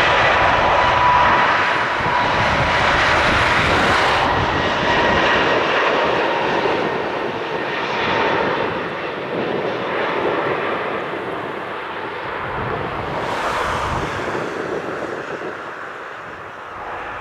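Airbus A320neo jet engines running loudly as the airliner passes and draws away, the noise steadily fading. A steady high whine sits in the engine noise for the first few seconds.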